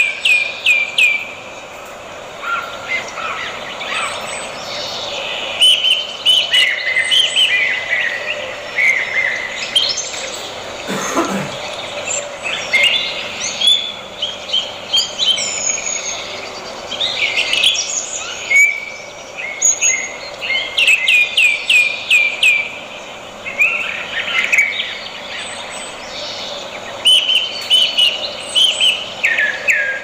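Wild birds calling and singing: rapid series of short falling whistled notes at the start and near the end, with assorted chirps and warbles in between.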